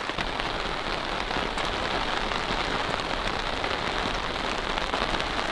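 Steady rain falling, with many separate drop hits on top of an even hiss.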